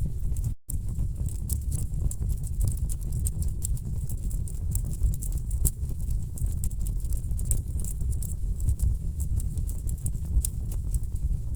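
Wood fire burning in a fireplace: a steady low rumble of flames with dense, irregular sharp crackles and pops from the logs. The sound drops out for a moment about half a second in.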